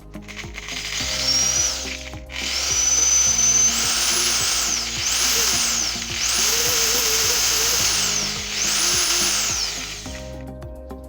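Electric car polishing machine running with a loud whining motor that cuts out briefly about two seconds in. It then speeds up and slows down several times, its pitch climbing and falling, and stops about ten seconds in. Background music plays underneath.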